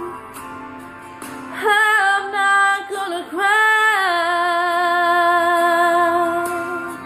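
Song: a female voice comes in about a second and a half in, moves through a short run of notes, then holds one long note that fades near the end, over quiet instrumental backing.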